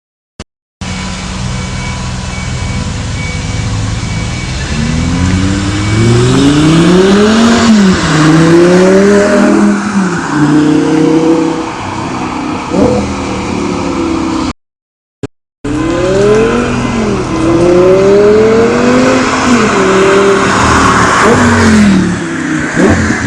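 Audi R8's V10 engine through a Milltek exhaust, accelerating hard: the engine note climbs in pitch and drops back several times as it shifts up through the gears. The sound cuts out briefly about two-thirds through, then a second run of acceleration and shifts follows.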